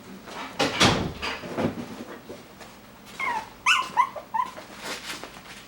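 Five-week-old Coton de Tulear puppies whimpering and yipping in a run of short, high calls midway through, after a few sharp knocks and clatters about a second in.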